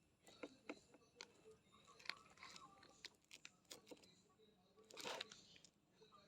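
A kitten chewing and crunching small fish: faint, irregular crunches, with a louder burst about five seconds in.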